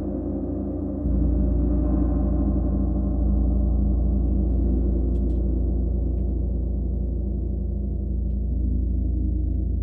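Gong ringing in a dense, sustained drone of many overlapping steady tones, deep and full. It swells louder about a second in, then holds.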